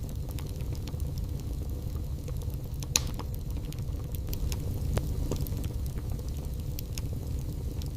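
Wood fire burning in a fireplace: scattered crackles and pops over a steady low rumble, with a sharp pop about three seconds in and another about five seconds in.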